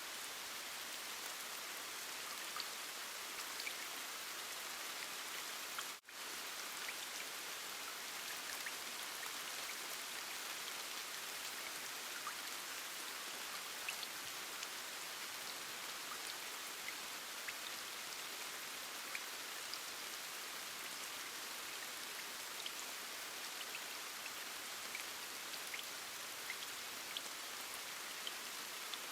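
Steady rain: an even hiss with scattered tiny drop ticks. It cuts out for an instant about six seconds in.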